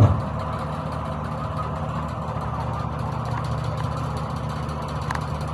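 An engine idling steadily, with a short thump right at the start.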